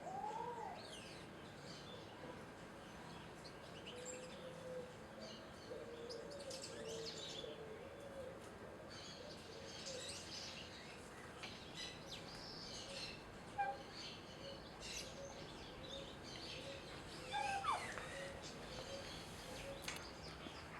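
Birds calling at a feeder: many short high chirps overlapping one another, over a low call repeated at an even pace. A louder call sweeps downward once, about three-quarters of the way through.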